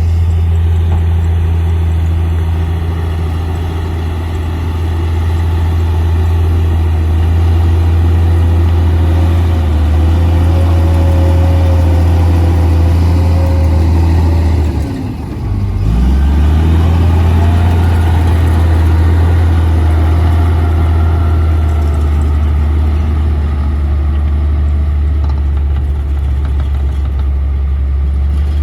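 Komatsu D58P bulldozer's diesel engine running steadily with a deep, loud hum. About fifteen seconds in, the engine note drops sharply and climbs straight back, and a faint whine wavers in pitch around that moment.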